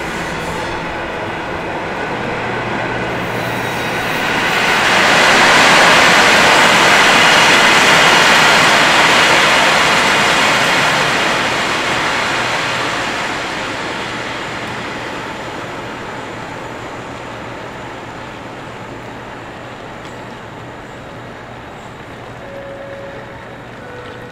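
A train moving on a track beside the platform: its rumbling noise builds over a couple of seconds, stays loud for several seconds, then slowly fades away. A short tone sounds near the end.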